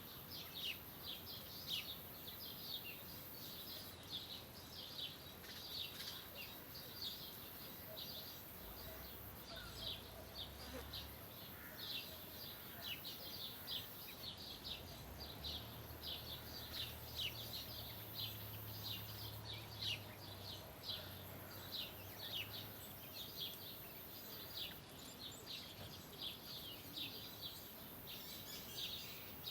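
Small birds chirping continuously: many short, quick, overlapping chirps. There is a steady high hiss behind them, and a faint low hum in the middle stretch.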